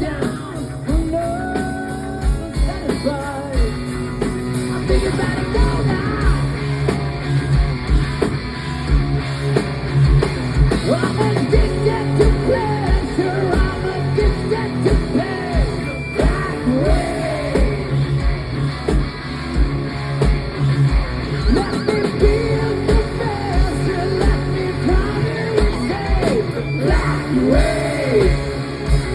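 Hard rock band playing live: a steady drum beat and bass under electric guitar, with singing.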